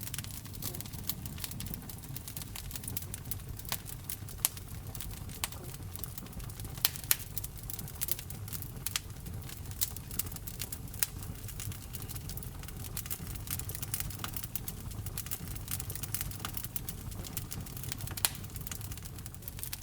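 Wood fire burning in a fireplace: a steady low rumble of the flames with irregular sharp crackles and pops, a few louder pops about seven seconds in and near the end.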